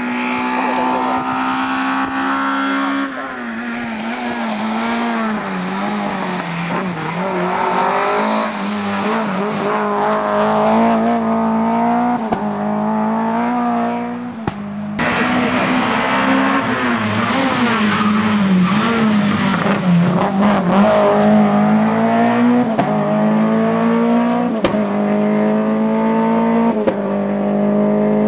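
Lada VFTS rally car's four-cylinder engine driven hard, its pitch climbing through each gear and dropping at every upshift of the sequential gearbox, with a couple of sharp cracks along the way.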